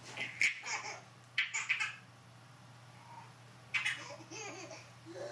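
Baby laughing in three short high-pitched bursts, near the start, about a second and a half in, and about four seconds in.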